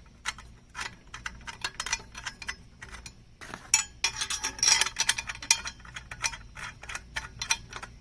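Aluminium chainsaw-mill frame pieces being screwed together: a run of light, irregular metallic clicks and ticks from the bolts and parts, thickest about halfway through.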